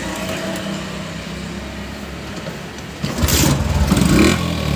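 Yamaha FZ motorcycle's single-cylinder engine idling steadily through its silencer, then blipped twice from about three seconds in, revving up sharply each time.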